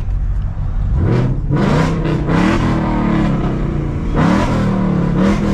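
2018 Ford Mustang GT's 5.0 Coyote V8, with long-tube headers and the resonators deleted, revved hard several times. The engine note climbs sharply about a second in, then rises again twice.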